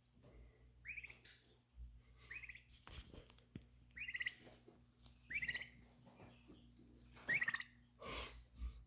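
A bird giving a series of short chirping calls, about five in all, each a quick rise and fall in pitch, spaced a second or two apart.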